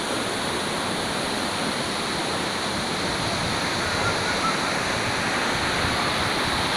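Waterfall crashing: a steady, loud rush of falling water.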